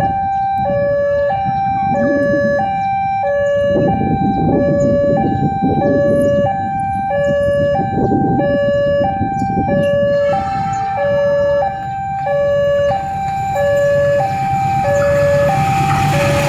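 Railway level-crossing warning alarm sounding a two-tone electronic chime that alternates high and low about every two-thirds of a second, repeating steadily. Under it there is rumbling traffic, and near the end the rushing noise of an approaching train builds up.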